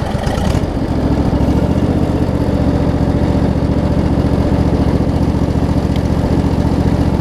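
The 25 hp Briggs & Stratton V-twin engine of a Craftsman DLT riding mower running steadily. It settles to an even level over about the first second.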